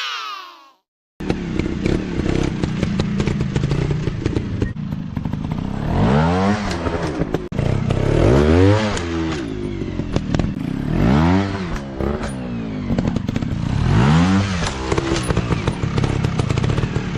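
Off-road motorcycle engines running, starting about a second in. One engine revs up and falls back about four times, over steady clatter and knocks.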